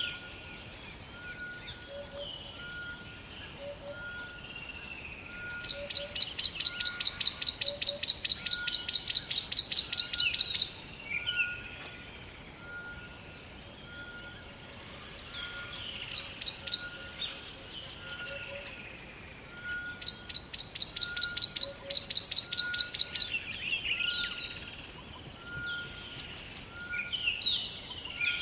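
Forest birdsong: one bird sings a loud, fast trill of repeated high notes in long bouts of several seconds, among scattered short chirps from other birds, while a lower peep repeats steadily about once a second.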